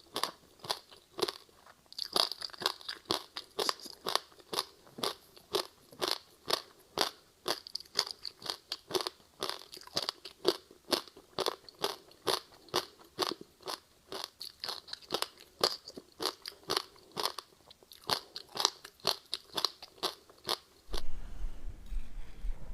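Ice being chewed up close: a steady run of crisp crunches, about two to three a second, as frozen passion-fruit ice with sesame seeds is bitten and chewed. The crunching stops shortly before the end, where a low hum and rustling take over.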